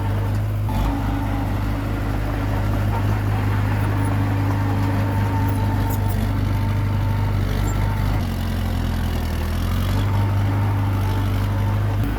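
Komatsu D21P bulldozer's diesel engine running steadily under work, its note dropping for a moment about eight seconds in and then picking back up.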